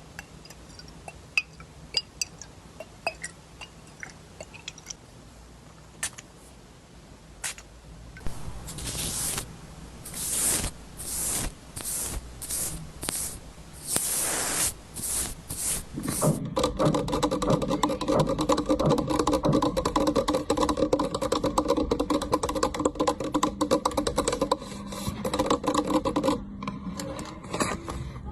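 Close-miked ASMR trigger sounds: scattered light taps and clicks, then a run of scratchy brushing strokes about one a second, then a dense continuous crackling rub from about sixteen seconds in that stops shortly before the end.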